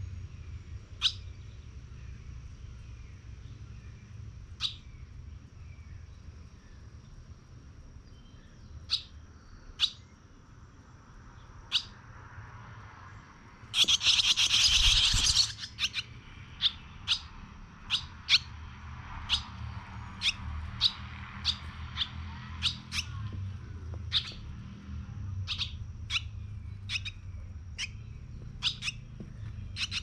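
Birds chirping: short, sharp high chirps, a few seconds apart at first, then coming about twice a second in the second half. About 14 seconds in there is a loud, noisy burst lasting about a second and a half.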